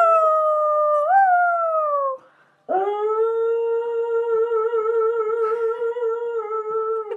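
A dog howling: a falling howl of about two seconds with a brief lift about a second in, then, after a short break, a longer howl held nearly level with a slight waver.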